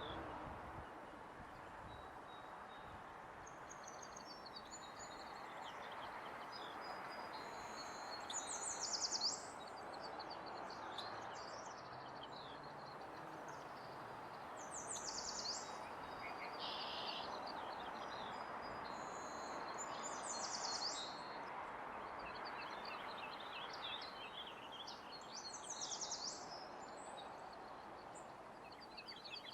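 Small birds chirping and trilling repeatedly over a steady, even background hiss of ambient noise.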